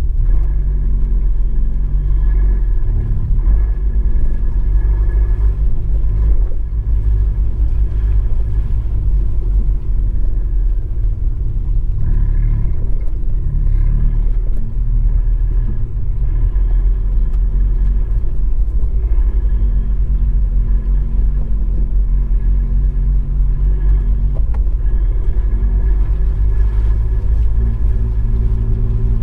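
Abarth 595 Esseesse's turbocharged four-cylinder running through an Akrapovič exhaust as the car is driven, picked up by a microphone in the boot: a steady deep rumble whose engine note shifts a little in pitch.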